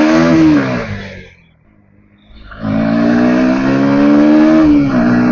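Bajaj Pulsar NS160 single-cylinder engine revved twice. The first rev falls away about a second in. After a short pause, a second rev climbs and holds high for about two seconds, then drops near the end.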